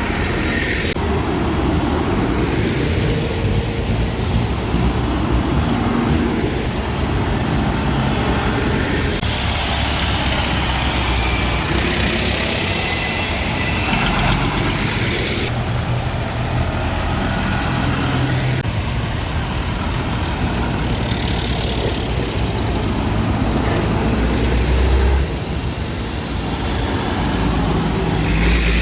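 Diesel tractor engines running loudly as tractors drive past one after another. The sound changes abruptly several times, around 9, 15, 18 and 25 seconds in.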